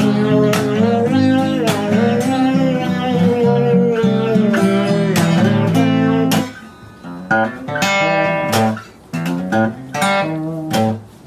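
Acoustic guitar strumming, with a long wavering melody note held over it for about the first six seconds. The guitar then drops to quieter, sparser picked notes.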